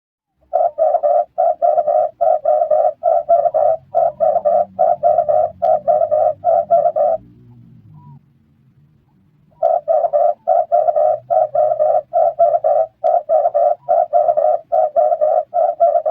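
Red turtle dove cooing: a fast, even run of repeated coos, about three a second for some six seconds. After a pause of about two seconds a second run follows.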